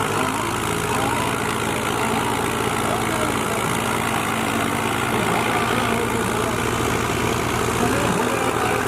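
Diesel tractor engine running steadily at a low, even speed, with voices of a crowd in the background.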